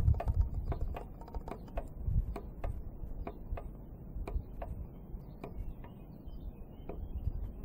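Homemade Stirling hot-air engine built from a converted air pump, running with a regular mechanical click each stroke, about three a second at first and slowing to about two a second. The outdoor wind is now and then blowing its heating flame away. A low wind rumble lies underneath.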